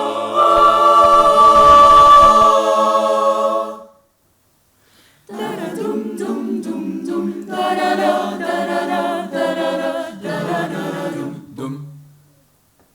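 Choir singing a cappella in close harmony: a held chord stops about four seconds in, and after a pause of over a second the voices come back in and the piece ends near the close.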